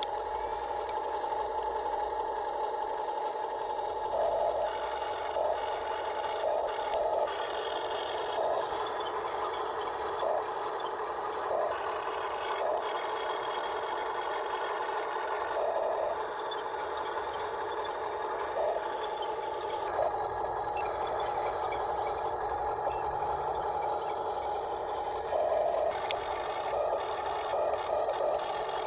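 Huina remote-control dump truck's electric drive motor and gearbox whining steadily as it drives, with brief scraping and rattling from the load and wheels every second or so.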